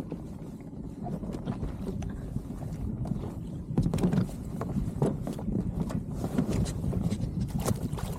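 Small inflatable boat riding at anchor: water lapping against the hull under a steady low rumble, with scattered light knocks and rubs on the boat.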